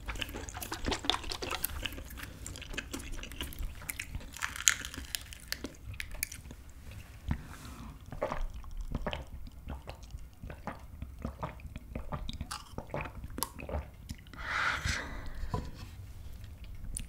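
Close-miked mouth sounds of a person eating: chewing with many small wet clicks, and swallowing gulps of milk drunk from a small plastic bottle partway through.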